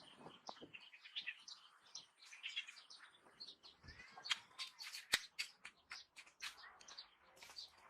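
Birds chirping, with many short high calls, and a quick run of sharp clicks or taps about halfway through.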